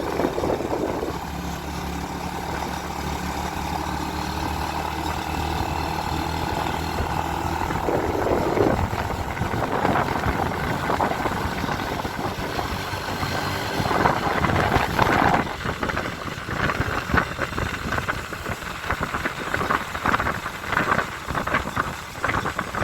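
A vehicle engine runs steadily on a mountain climb. From about halfway through, irregular crackling and clattering join the engine, denser near the end.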